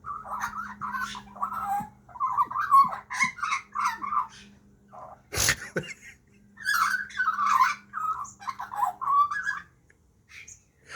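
Young Australian magpie calling in three bouts of squawky, wavering chatter, with one short harsh burst of noise about halfway through.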